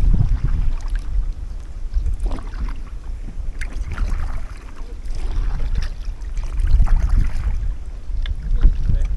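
Wind buffeting the microphone in a low rumble, with irregular splashes of water from kayak paddle strokes every second or two.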